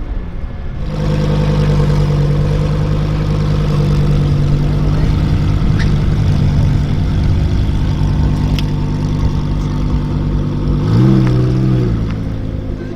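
Lamborghini Huracán Performante's V10 engine running steadily at low revs, with one short rev blip, rising and falling, about eleven seconds in.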